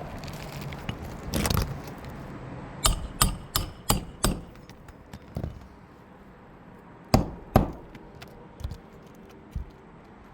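Roofing nails being driven into asphalt shingles: a quick run of five sharp strikes, then two more loud strikes a few seconds later and a couple of fainter knocks.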